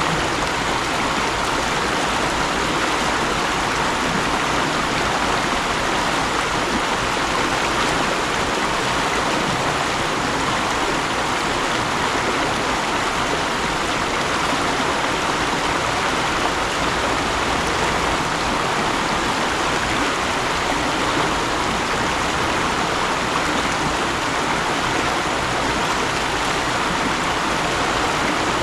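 Mountain stream rushing and splashing over rocks, a steady even flow.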